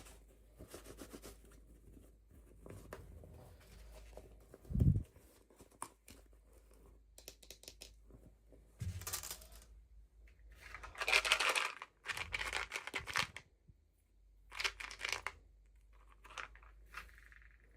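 Packaging being torn open and crinkled by hand, in irregular rustling bursts, with two soft thumps from handling.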